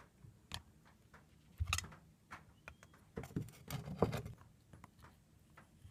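Scattered light clicks and knocks, with a dull thump about a second and a half in and a cluster of knocks a little past the middle.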